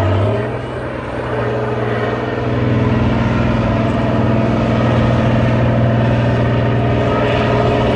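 Off-road trial truck engine running hard under load, holding a steady pitch and growing louder over the first few seconds before holding at full level.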